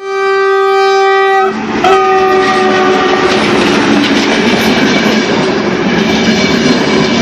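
Train horn sounding two blasts, a long one and then a shorter one that fades, followed by the steady rumble and clatter of the train running on the rails.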